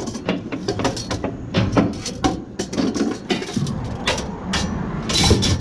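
Irregular clanks and knocks of scrap metal being handled and moved, with a louder scraping clatter near the end, over the steady low hum of a running vehicle engine.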